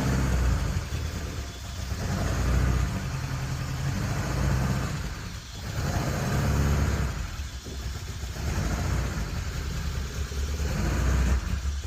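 Mk2 Ford Escort's engine running as the car is reversed into a garage, the engine note rising and falling several times with light revs.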